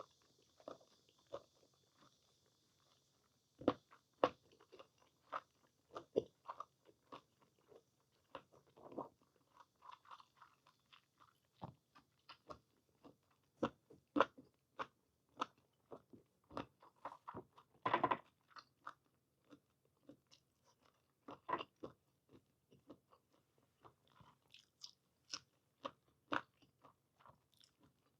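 Close-miked chewing of boiled whole squid dipped in chojang: irregular wet smacks and clicks of the mouth working the rubbery flesh, with a louder bite about two-thirds of the way through.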